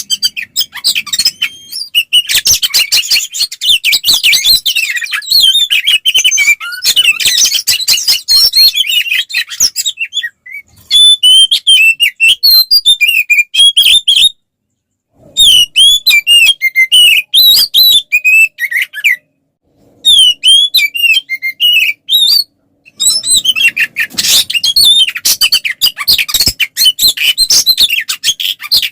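Oriental magpie-robin (kacer) in full fighting song: a fast, dense stream of varied whistles, trills and chattering notes. It breaks off for three short silences in the middle stretch.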